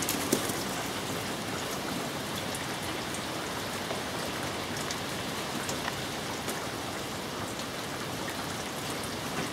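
Heavy rain falling steadily: a dense, even hiss with scattered sharp ticks of drops striking nearby surfaces.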